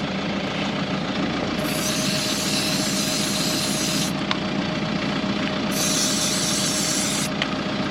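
Tow vehicle's engine idling steadily while an aerosol can of contact cleaner hisses in two sprays, the first about two and a half seconds long starting about a second and a half in, the second shorter near the end. The spray is cleaning the 12-volt connection of a caravan fridge that is not running properly on battery.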